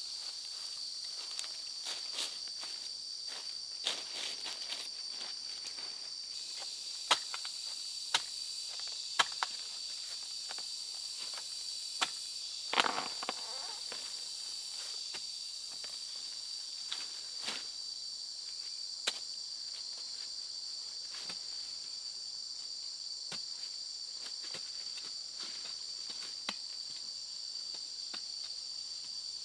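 Steady, high-pitched insect chorus, with scattered sharp clicks and knocks, several of them between about seven and thirteen seconds in.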